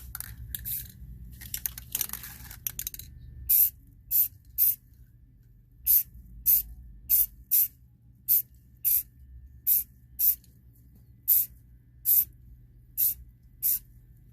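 Aerosol can of Rust-Oleum high-heat spray paint giving a long series of short spurts, roughly one or two a second, beginning about three seconds in. The spurts lay light coats on an ATV exhaust pipe.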